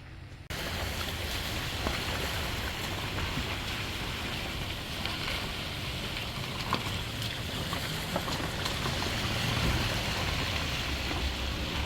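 Steady rushing outdoor noise of wind and sea surf, with a low rumble underneath, starting abruptly about half a second in.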